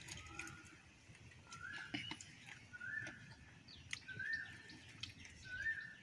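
A bird repeating a short call five times, each a quick upward slide into a briefly held note, about one every second and a half, with a few light clicks in between.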